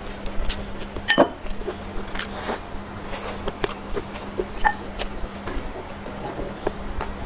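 Close-miked eating sounds: wet mouth smacks and chewing clicks coming irregularly, about one or two a second, with the loudest about a second in.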